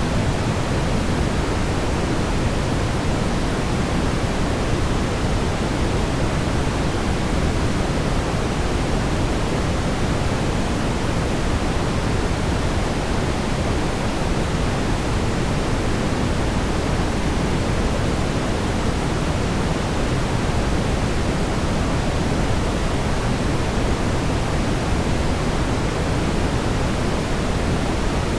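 Steady brown noise: an even, unchanging rumble of noise, strongest in the bass and fading toward the treble, with no pattern or events.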